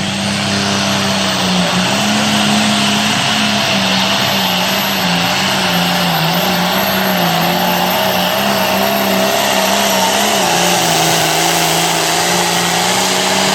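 Turbocharged pulling tractor engine running at full throttle while dragging the weight sled, with a high turbo whistle over the engine note. The engine pitch wavers and drops a little about ten seconds in, then the sound cuts off at the very end.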